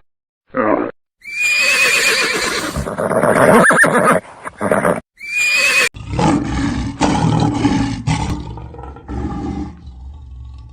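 A series of animal calls: a short grunt, then a long, high, wavering whinny-like call, a second shorter one about five seconds in, and then a low rumbling growl.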